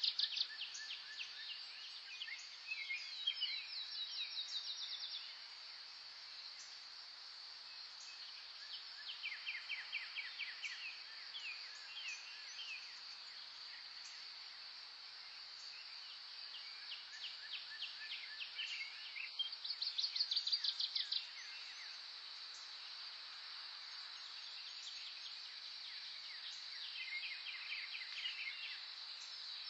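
Birds singing: short trills of quick, evenly repeated notes every few seconds, over a steady high-pitched drone.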